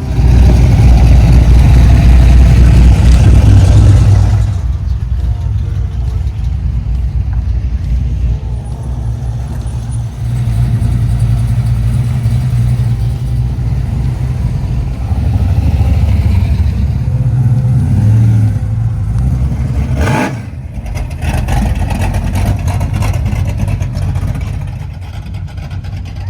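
Loud, low car-engine rumble from cruising cars, loudest for the first few seconds and revving up at times. A brief sharp noise cuts through about twenty seconds in.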